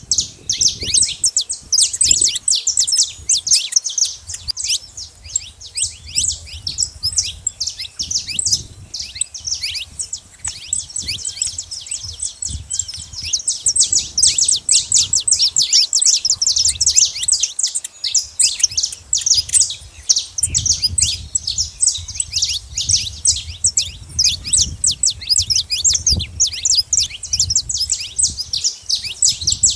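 Saffron finches chirping in a dense, continuous chatter of rapid, short high chirps, with a faint low rumble underneath.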